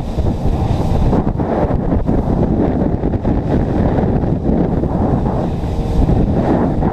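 Wind buffeting the microphone aboard a small boat, a loud, steady rushing noise that is heaviest in the low end.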